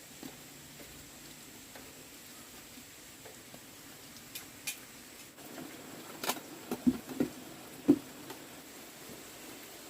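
Scattered light taps and clicks, then a cluster of louder dull knocks about six to eight seconds in, over a faint steady hiss.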